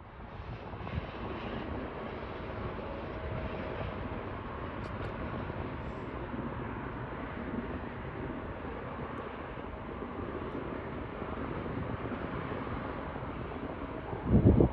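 Jet airliner's engines giving a steady, even rush. Near the end a gust of wind hits the microphone.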